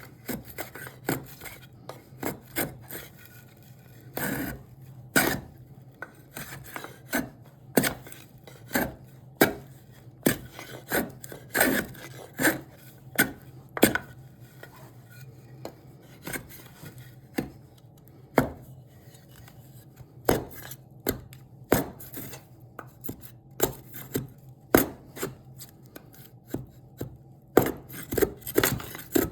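Hand tool cutting and shaping cherry wood in short, sharp strokes at an uneven pace, about one or two a second, over a steady low hum.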